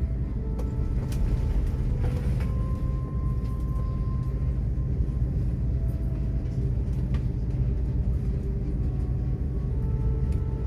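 Steady low rumble of an Airbus airliner's cabin in flight: jet engine and airflow noise heard from a passenger seat, with a few light clicks.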